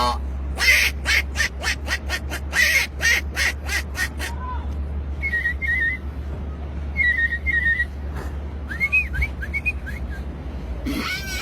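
A man mimicking animal calls with his mouth. First comes a quick run of short sharp calls, then warbling, trilled bird-like whistles that rise and fall in pitch. A steady low rumble runs underneath.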